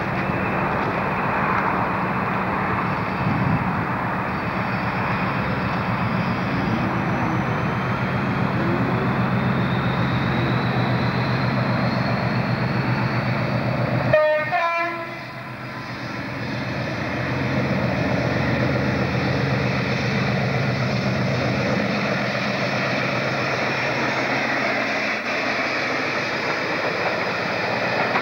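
Diesel train running steadily, a continuous engine drone with rail rumble. About halfway through there is a short pitched note, and after it the level dips for a moment.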